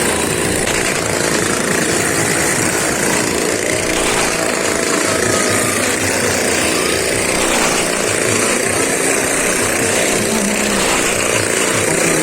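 Motorcycle engines running steadily and loudly, without a break.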